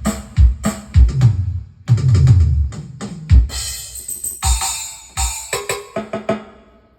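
Drum kit samples from a Medeli AKX10 keyboard played one key at a time: bass drum and snare hits, a run of toms falling in pitch about two seconds in, then a cymbal wash and a few pitched ringing percussion hits near the end.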